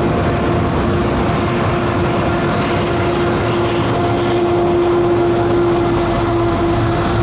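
Freight train's tank cars and intermodal cars rolling past: a steady rumble of steel wheels on rail, with a steady humming tone running through it.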